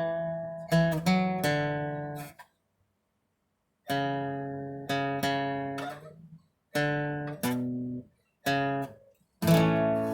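Acoustic guitar strumming chords that ring out and fade, an instrumental break between sung verses. It drops out entirely for about a second a couple of seconds in, then the strummed chords resume.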